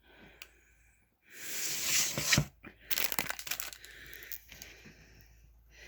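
A burst of rustling, crinkling noise that swells about a second in and stops sharply, followed by a run of crackles and clicks that fade away.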